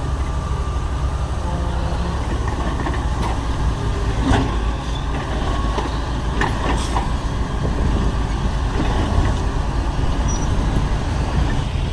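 Heavy construction machinery's diesel engine running steadily, with a few short clanks near the middle.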